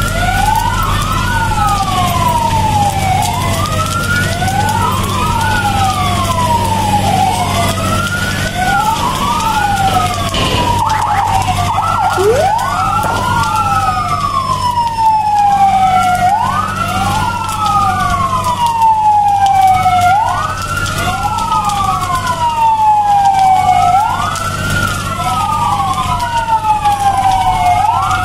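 Two or more electronic sirens wailing at once, out of step with each other. Each rises quickly and falls more slowly, about every two to three seconds. A low steady hum runs underneath.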